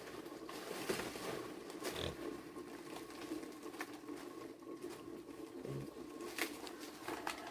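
Pigs grunting, with scattered clicks and knocks.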